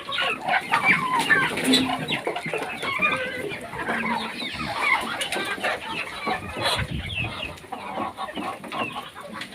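A flock of domestic chickens clucking, with many short, overlapping calls.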